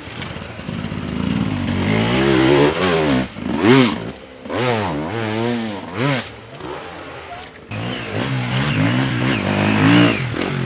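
Dirt bike engine revving in repeated bursts, its pitch rising and falling, with short drops back down between the bursts.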